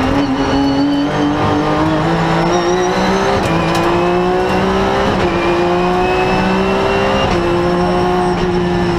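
Rally car engine at full throttle, heard from inside the cabin, its pitch climbing steadily as it accelerates, with upshifts about three, five and seven seconds in that each drop the revs a little. A couple of sharp clicks come near the middle.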